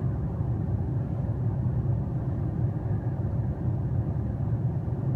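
Steady low rumble of a front-wheel-drive car's engine and tyres on the road, heard from inside the cabin while driving.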